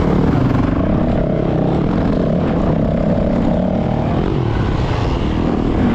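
Dirt bike engine running hard and loud, its revs wavering up and down.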